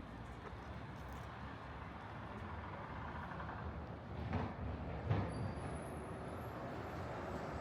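City street noise with a passing vehicle, its rumble slowly growing louder, and two short thumps about halfway through.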